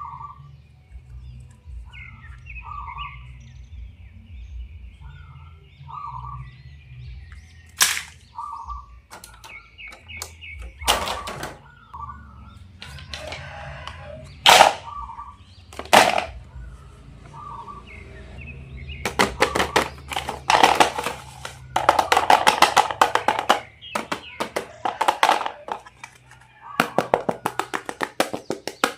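Background music with a low bass line and short blipping tones, over sharp clicks and then stretches of rapid crackling, like plastic toy packaging being handled and opened.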